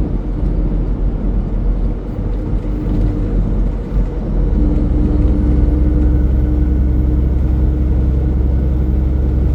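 Semi-truck engine drone and road rumble heard inside the cab while driving, growing louder and steadier about four and a half seconds in.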